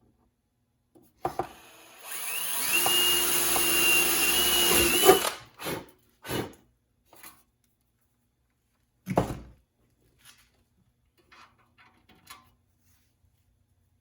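Power drill running for about three seconds with a steady whine, then stopping, followed by a few knocks and small clatters of handled parts.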